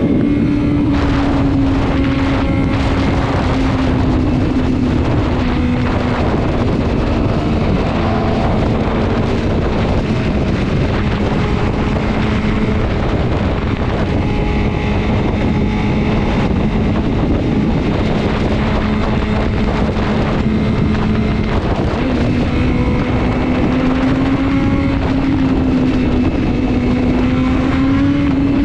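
Sport motorcycle engine running at steady revs at speed, its pitch easing down slightly for a while and rising again near the end, with heavy wind noise on the microphone.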